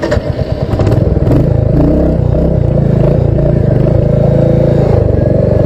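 Motorcycle engine running slowly, close up, with a steady low pulsing. The strokes are uneven for about the first second, then settle into an even rhythm.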